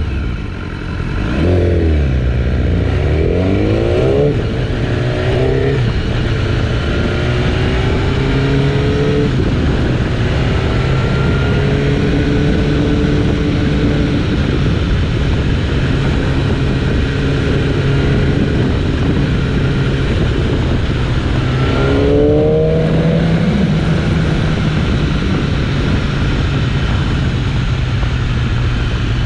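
BMW S1000RR inline-four engine under way: in the first several seconds the pitch climbs and drops back several times as it accelerates and shifts up through the gears, then it runs at fairly steady revs, with another quick rise in revs about 22 seconds in.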